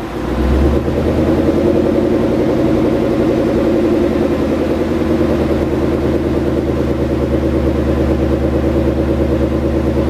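Ford Mustang engine idling steadily with an evenly pulsing exhaust note, after sitting unused for a month. It swells up about half a second in, then holds level.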